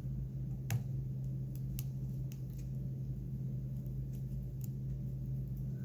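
A few faint clicks and snicks of a double-edged razor blade cutting old skirt material off a popper fly, the sharpest about a second in, over a steady low hum.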